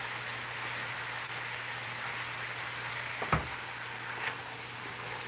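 Stir-fried vegetables sizzling steadily in a metal pot as they are stirred, with a sharp knock a little past three seconds in as the spatula strikes the pot.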